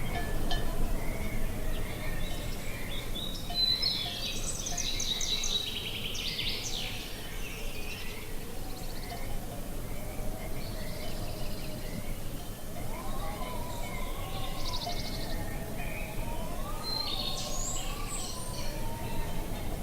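Steady wind noise outdoors with small birds chirping in short bursts, most at a few seconds in and again near the end. A faint wavering tone comes in about halfway through.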